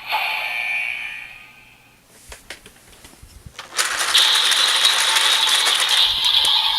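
A toy transformation belt's electronic sound fades out. A few separate plastic clicks follow, then the Evolt Driver's hand crank is turned from a bit under four seconds in, giving a loud, rapid plastic ratcheting.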